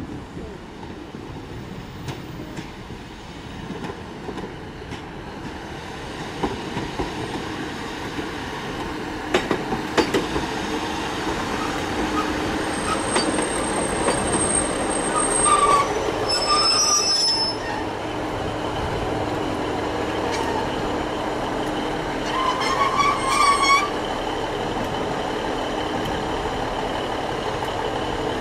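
Train running into the station, its rumble growing louder, with a few sharp clicks from the wheels on the rails about a third of the way in. High metallic squeals come in around the middle and again about four-fifths through.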